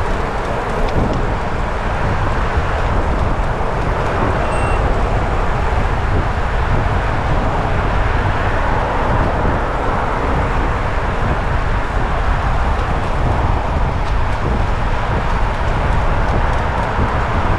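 Steady rushing noise of travel along a road, wind and road noise on the moving microphone, even and unbroken throughout.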